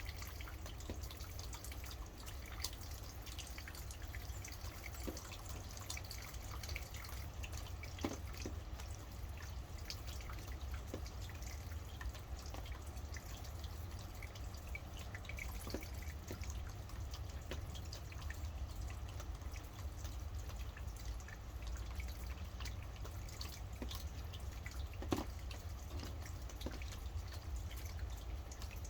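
Steady rain with scattered close drips over a low rumble, and a few louder single drops about eight seconds in and near the end.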